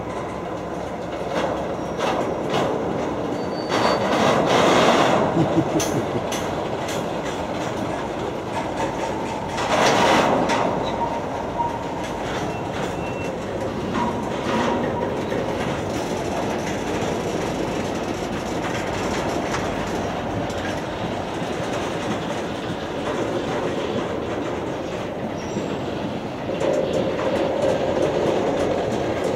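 Freight train cars rolling slowly past over a grade crossing, a steady rumble of wheels on rail with scattered clicks over the joints. Two louder rushes of wheel noise come about four and ten seconds in.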